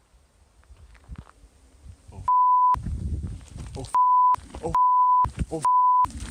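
Censor bleeps: a steady one-kilohertz beep tone sounds four times in the second half, each under half a second, with the audio cut out behind each one, blanking out swearing. Between the bleeps come brief snatches of a shouting voice and low rumble.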